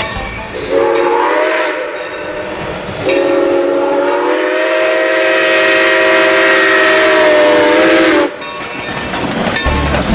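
Steam locomotive's chime whistle sounding a chord in two blasts: a short one, then after a pause a long one of about five seconds that cuts off sharply.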